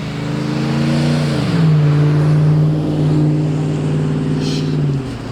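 A car engine and exhaust drone at steady revs. The pitch drops about a second and a half in, holds, then cuts off just before the end.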